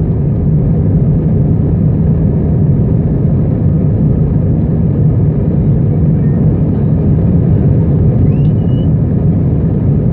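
Steady engine and airflow noise inside the passenger cabin of an Airbus A320 in flight, an even, unchanging low rumble.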